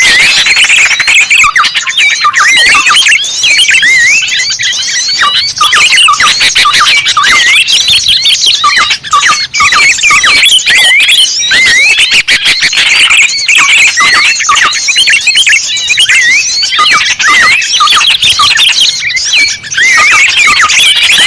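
A dense chorus of many small songbirds chirping and twittering at once, the quick high calls overlapping without pause: a bird-lure (pikat) recording for attracting small birds.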